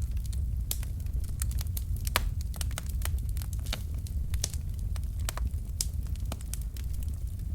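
Wood fire of burning logs crackling, with frequent irregular sharp pops and snaps over a steady low rumble of the flames.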